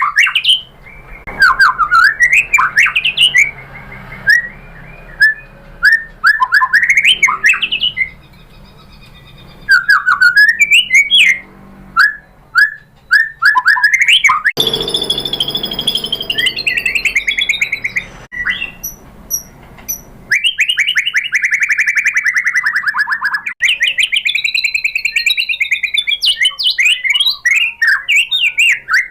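White-rumped shama singing: rapid whistled phrases of sweeping, rising and falling notes and fast trills, with short pauses between phrases.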